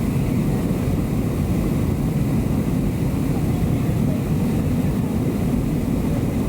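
Steady cabin noise inside a Boeing 737-700 airliner, engine and airflow noise heard as an even low-pitched hiss without any distinct events.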